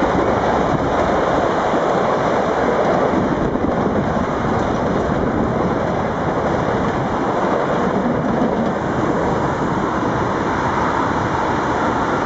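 Steady rushing noise of a passing NS VIRM double-deck electric train.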